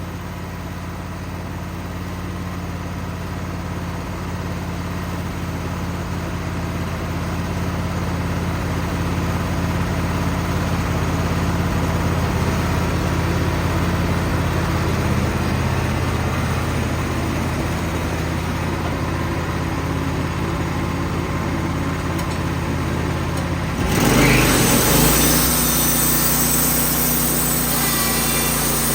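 Wood-Mizer portable sawmill's engine running steadily. Near the end the sound changes abruptly: it grows louder with a hissing, rushing noise, and the engine note shifts pitch and holds at the new one.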